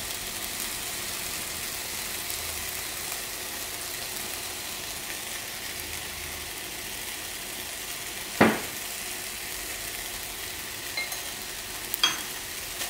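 Konjac noodles sizzling steadily in oil in a nonstick frying pan. A single sharp knock comes about eight seconds in, with a few faint clicks near the end.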